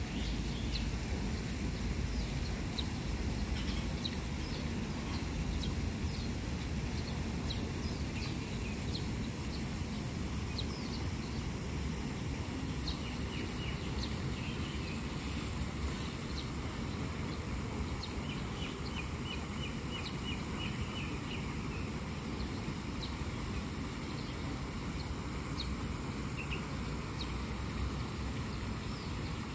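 Small birds chirping now and then, with a quick run of about ten chirps around two-thirds of the way in, over a steady low rumble of outdoor background noise.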